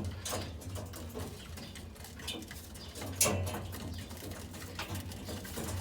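Pigeons cooing in a loft, a low pulsing coo, with scattered light clicks and one sharper knock about three seconds in.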